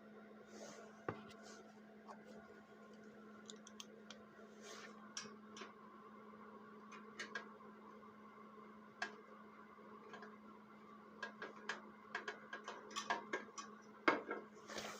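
Scattered light clicks, taps and clinks of small metal parts and hand tools being handled during snow blower repair work, growing busier and louder near the end, over a steady low hum.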